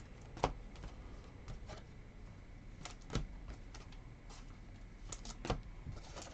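Scattered light clicks and taps on a desk, with three louder knocks spread through, from small objects being handled and set down.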